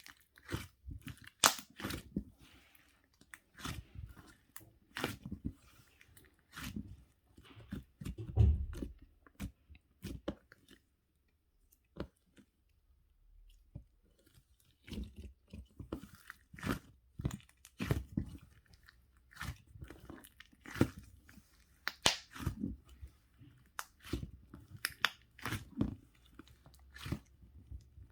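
A person chewing and crunching food in irregular bites, with a pause of a few seconds about halfway through.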